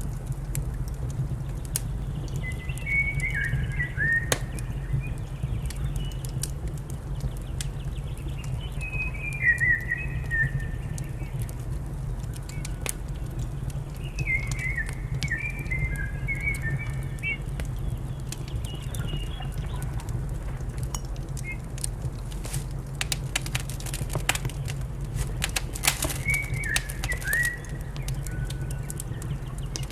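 A wood fire crackling with scattered sharp pops over a steady low rumble, the pops coming thickest near the end. A small songbird sings four short twittering phrases over it.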